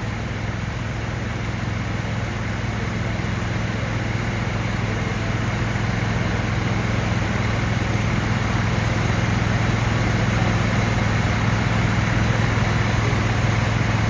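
Large engine running steadily with a deep, even hum under a constant rush of noise, growing slightly louder over the span.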